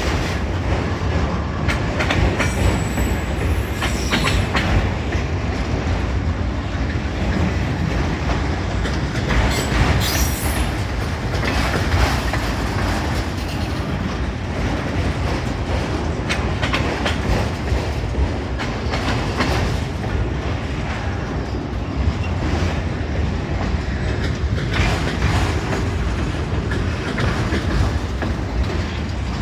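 Freight cars of a long CSX train rolling past, a steady rumble with the wheels clacking over rail joints.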